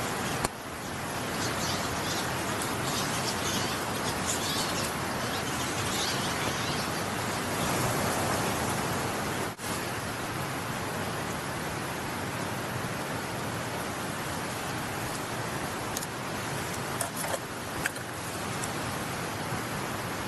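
Mountain stream flowing, a steady rush of water, with a few faint short high chirps over it.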